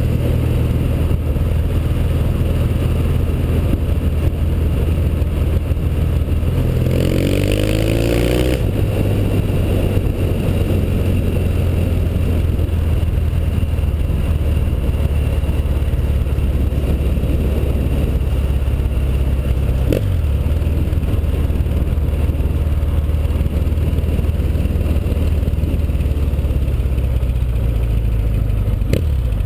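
1981 Yamaha XS650 parallel-twin motorcycle engine running steadily under way. About seven seconds in it revs up in a rising note for a second or so, and the note drops near the end as the bike slows.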